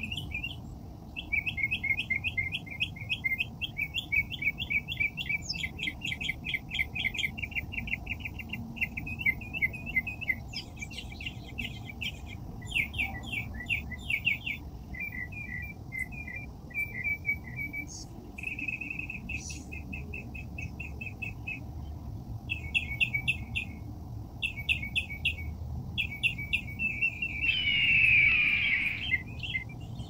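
Small songbirds chirping in quick repeated trills, phrase after phrase with short pauses. A louder, rougher burst comes about two seconds before the end, over a faint low steady rumble.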